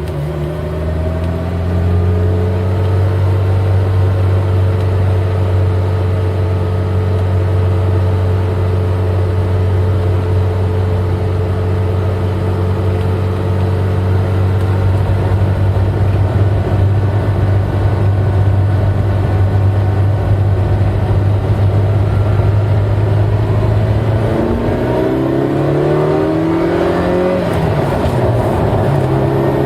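Eight-cylinder car engine pulling steadily in fifth gear with a constant low drone. In the last few seconds its pitch climbs and then falls back to a new steady note.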